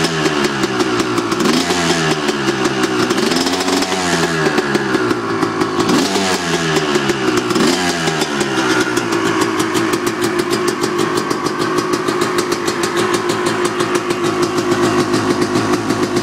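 2007 Honda CR250's single-cylinder two-stroke engine, warming up after a cold start. The revs are blipped up and down about five times, then it settles into a steady idle about nine seconds in.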